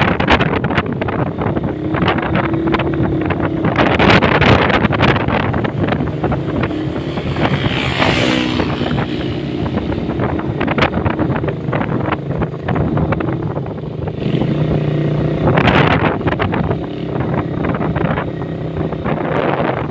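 Motorcycle engine running steadily while under way, with wind buffeting the microphone in gusts.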